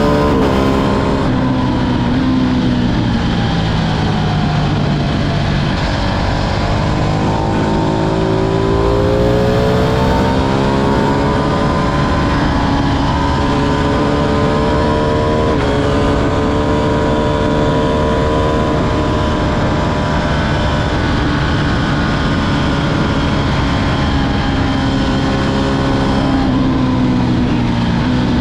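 Ducati Streetfighter V2's 955 cc Superquadro L-twin engine running under way. Its pitch falls over the first few seconds, climbs again and holds fairly steady with a small step in the middle, then eases down near the end.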